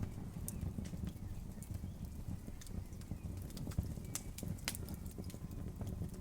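Wood fire burning: a low steady rumble of the flames under irregular sharp crackles and pops, one louder snap about four seconds in.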